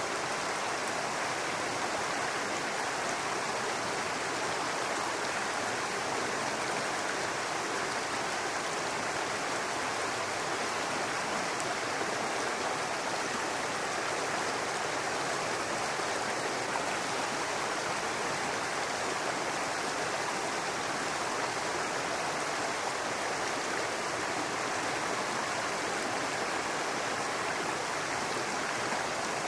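A small brook babbling steadily over rocks: an even rush of running water with no breaks or changes.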